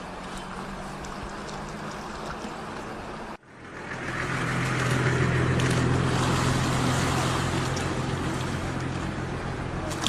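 An engine running steadily under wind and water noise. The sound cuts out abruptly a little over three seconds in and comes back louder.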